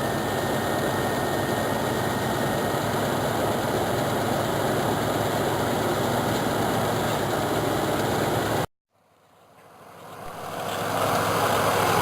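Chevrolet 305 V8 of a 1988 Caprice Classic idling steadily after a cold start in winter. About three-quarters of the way through, the sound cuts out abruptly, then fades back up over a couple of seconds.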